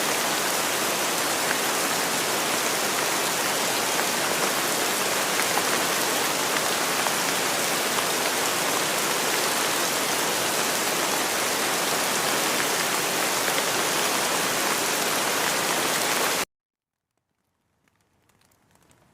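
Steady, dense rain falling on surfaces, an even hiss. Near the end it cuts off suddenly into a second or so of silence, then begins to fade back in faintly.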